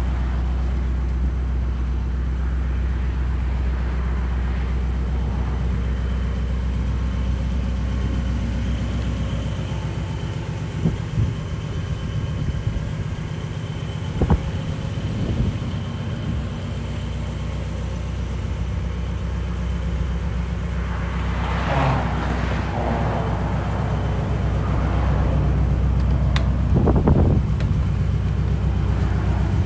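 1963 Ford Fairlane's 221 V8 idling steadily, with a few scattered knocks and rustles over it.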